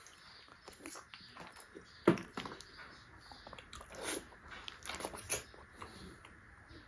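Bites and chewing of ripe jackfruit flesh, with scattered short mouth clicks; the sharpest comes about two seconds in, with smaller clusters around four and five seconds.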